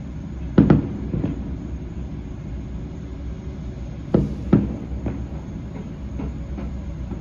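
Fireworks going off: sharp booms in two close pairs, about half a second in and again around four seconds in, with smaller pops between, over a steady low rumble.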